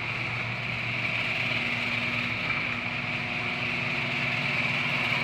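Genie screw-drive garage door opener running steadily as it raises the door, a continuous motor-and-screw drone with a high whine over a low rattle.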